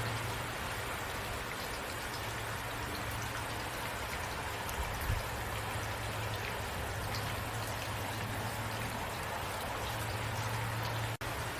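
Steady rain falling, an even hiss with scattered drop ticks over a low steady hum; the sound cuts out for an instant near the end.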